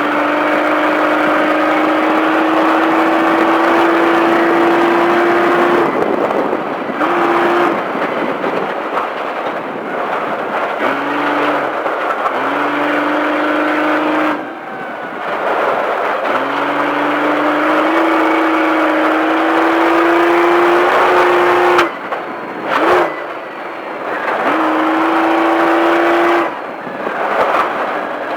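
Off-road race truck engine under hard throttle, its note climbing slowly through long pulls and then cutting away several times as the throttle is lifted, over a steady rush of wind and tyre noise.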